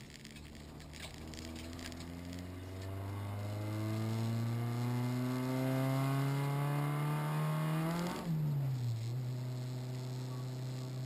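Renault Clio RS rally car's four-cylinder engine heard from inside the cabin, pulling through a gear with the revs rising steadily for about eight seconds. A gear change then drops the revs sharply, and the engine runs on at a steady pitch.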